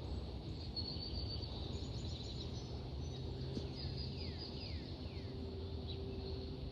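Small birds chirping and calling, with repeated high chirps and short falling whistles, over a steady low rumble of outdoor background noise.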